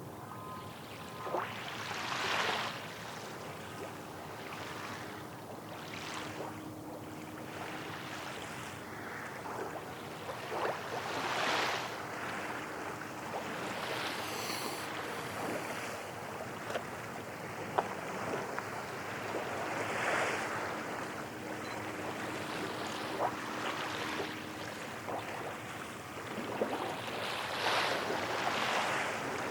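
Small waves washing on the Tokyo Bay shore, a surge of surf every few seconds over a steady wash of water and wind.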